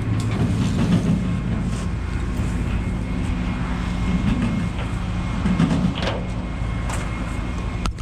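Rollback tow truck engine running steadily at idle, with a few scattered clicks and knocks over it.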